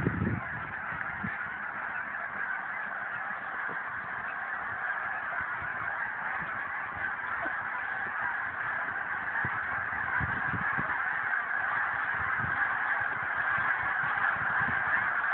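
A large flock of birds calling all at once, a dense unbroken chorus of honking calls that grows a little louder towards the end.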